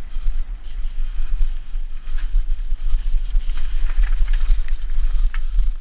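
Mountain bike ride heard through an action camera's microphone: a steady low rumble of wind and frame vibration on the mic, with a few scattered light ticks and rattles.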